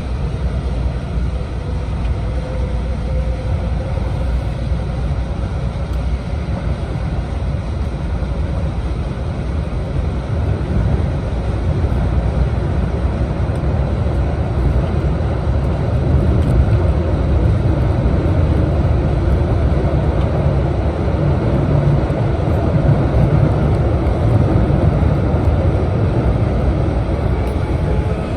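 E4 series Max Shinkansen running at speed, a steady rumble and rush of wheels and track heard inside its Green car cabin, growing a little louder about halfway through.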